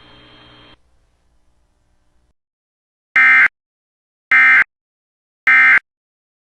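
NOAA Weather Radio end-of-message signal: three short, loud bursts of SAME digital data, about a second apart, marking the end of the severe thunderstorm warning broadcast. Before them a faint radio hiss cuts off under a second in.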